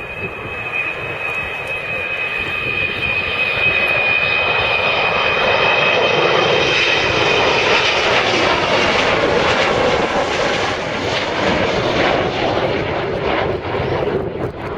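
Engine noise of a display aircraft flying past, building to its loudest in the middle and easing a little near the end. A high steady tone in it sinks slowly in pitch.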